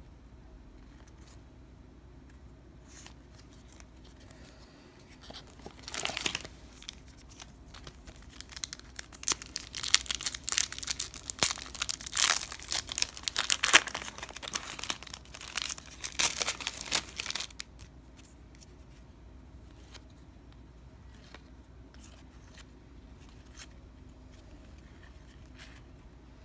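A 1999 Skybox Thunder baseball card pack's wrapper being torn open and crinkled, in loud bursts of tearing and crackling from about six seconds in until about seventeen seconds in. Faint clicks of cards being handled come before and after.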